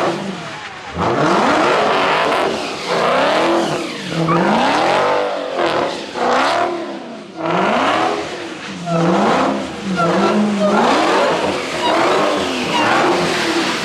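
Car engine revved hard over and over, its pitch rising and falling about once a second, over a loud rushing noise.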